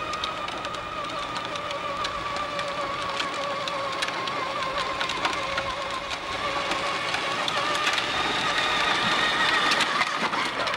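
A small motor whining at a steady, slightly wavering pitch, with scattered clicks over it, cutting off suddenly at the end.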